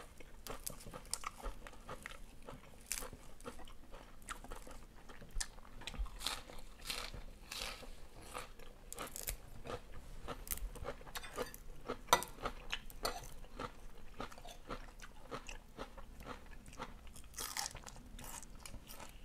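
A person chewing and eating duck larb close to the microphone, with many short, irregular crunches and mouth clicks.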